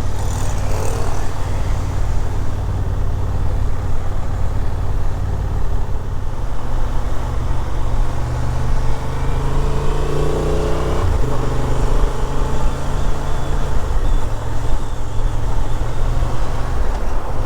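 Motorcycle engine running at road speed under wind noise. The engine note rises and then drops sharply about eleven seconds in.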